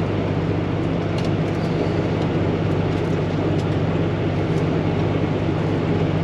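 Diesel truck engine idling with a steady low hum.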